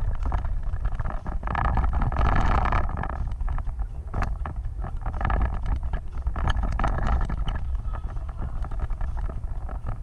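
Vehicle driving off-road: a steady low rumble with wind buffeting the microphone and many short knocks and rattles, swelling louder about two seconds in and again around the middle.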